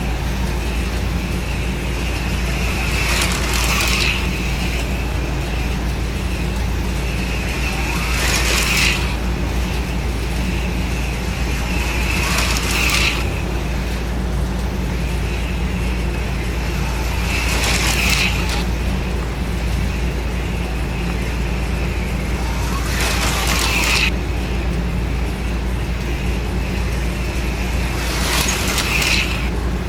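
HO-scale AFX slot cars racing laps, their small electric motors whizzing past about every five seconds, each pass a brief rush over a steady low hum.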